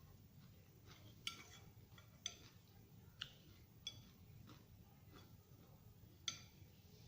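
Cutlery clinking against a dish five times, each clink ringing briefly, with a low steady room hum underneath.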